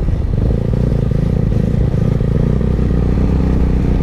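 Benelli TNT 25 motorcycle's single-cylinder engine running at a steady speed while riding.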